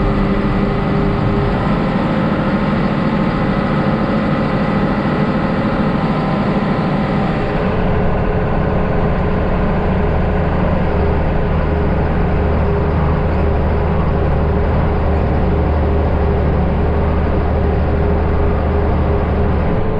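Heavy farm machine's engine running steadily. About seven and a half seconds in the sound changes: the high hiss drops away and a deep hum comes to the fore.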